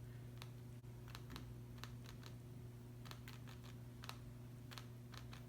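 Faint, irregular light ticks of a small round paintbrush dabbing paint onto paper, over a steady low electrical hum.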